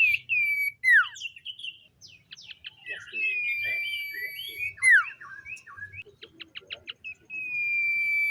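Common iora singing: long, level whistles, twice, broken by short notes that slide sharply down in pitch, scattered chattering notes, and a quick run of clipped notes before the last whistle.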